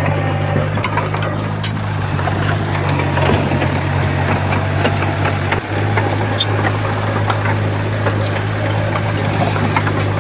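Heavy diesel engine of an earthmoving machine running steadily, with scattered clanks and knocks over it; the engine note drops out for a moment just past the middle.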